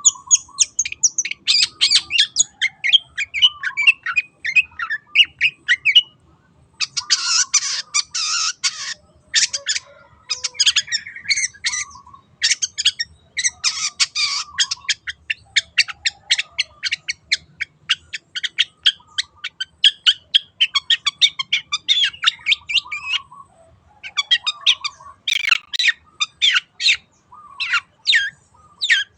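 Long-tailed shrike (cendet) singing: a rapid, varied stream of chirps and whistled notes mixed with harsh rasping calls, broken by a couple of short pauses.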